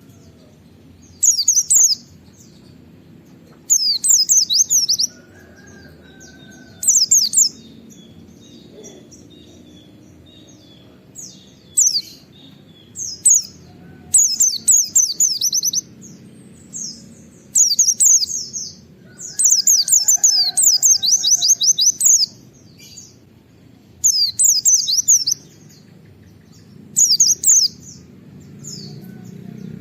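White-eye (pleci) singing in repeated bursts of fast, high, chattering notes, the 'nembak' shooting song, with short pauses between bursts. The longest run comes about twenty seconds in.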